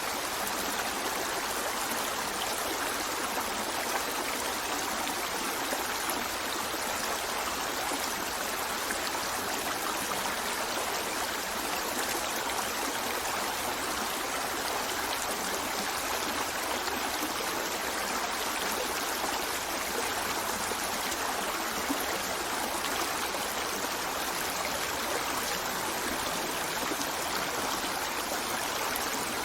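Running water, a steady rush like a stream flowing, unchanging throughout.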